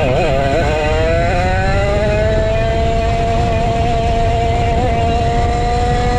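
Vintage go-kart's 135cc Sudam engine under power. Its note wavers briefly, then climbs steadily as the kart accelerates and holds high near the end, over a constant low rumble.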